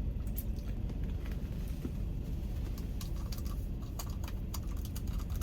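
Steady low rumble of a car's idling engine heard inside the cabin, with scattered light clicks and taps from small objects being handled, most of them about three to four and a half seconds in.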